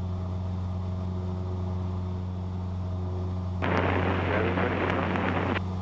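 Cessna 172's engine and propeller droning steadily, heard in the cabin as a low even hum. About three and a half seconds in, a two-second burst of crackly noise rides over it and then cuts off.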